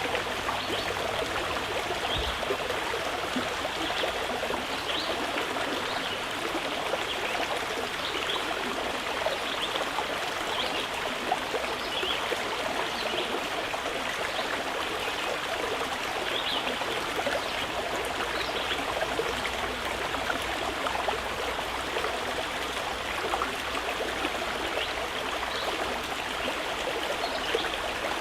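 Mountain river flowing steadily over stones, a constant rushing of water.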